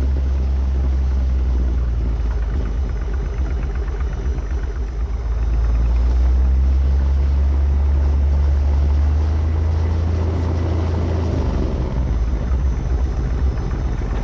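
Light airplane's piston engine running at low power while taxiing, a steady low drone from the cockpit. It grows louder about six seconds in.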